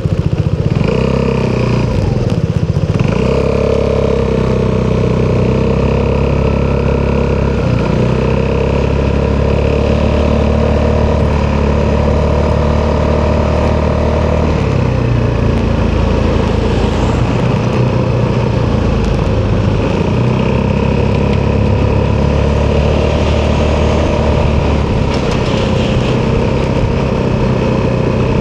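Italjet Dragster 200's single-cylinder four-stroke engine through an Akrapovic exhaust, running continuously. Its note shifts up and down with the throttle: a glide in the first few seconds and further changes around the middle and near the end.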